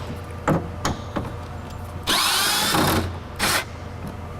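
A cordless power driver with a socket runs for about a second, rising in pitch, then gives a shorter second burst, loosening a bolt that holds the window glass to the regulator. A few light clicks come before it.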